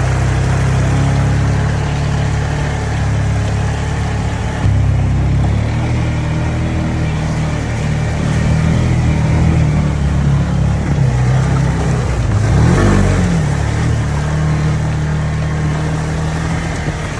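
An engine running steadily, its pitch shifting now and then, with a brief dip and rise in pitch about three-quarters of the way through.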